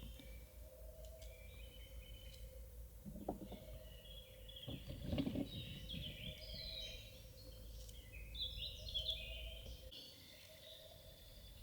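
Small birds chirping and singing in quick, twittering phrases, busiest in the second half. A steady low rumble runs underneath, with a few soft knocks a few seconds in.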